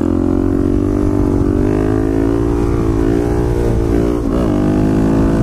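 Small dirt-bike engine running at a steady, fairly high speed, with a brief dip and recovery in pitch about four seconds in.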